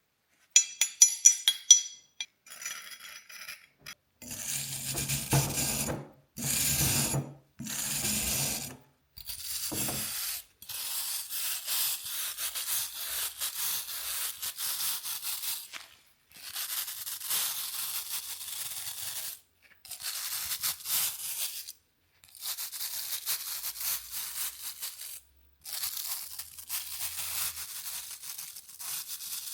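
Hard metallic clinks at first, then rough scraping strokes on rusty metal in runs of a few seconds with short pauses between them, as rust is worked off an old iron horseshoe.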